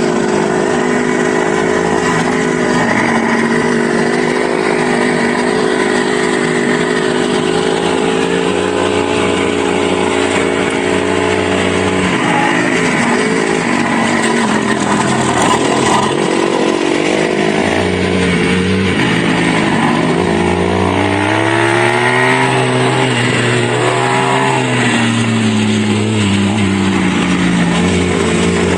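Dirt bike engine running on a trail, its revs holding steady at first, then rising and falling repeatedly toward the end as the throttle is worked.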